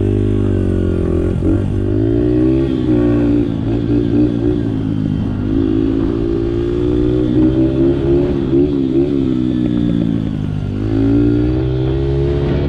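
Honda 50cc dirt bike's small four-stroke single-cylinder engine running while being ridden, its pitch rising and falling with the throttle, dipping about five seconds in and again near the end.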